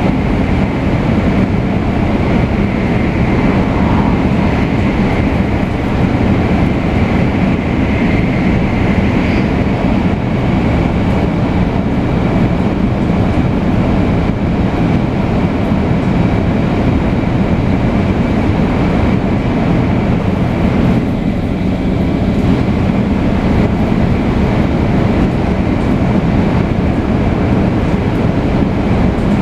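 Running noise of a 500 series Shinkansen, heard from inside the car between stations: a steady, loud rolling rumble with a steady high whine above it. The higher hiss dips briefly about twenty seconds in.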